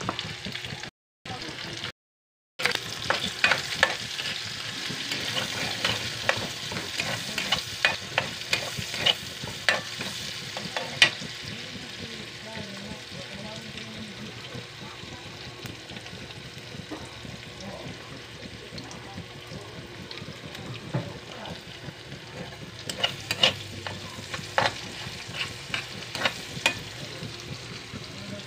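Chopped onion frying in oil in a wok, a steady sizzle, with a metal spatula scraping and clinking against the pan as it is stirred. The clinking is busiest over the first ten seconds and again a little past twenty seconds, sparser in between, and the sound cuts out twice briefly near the start.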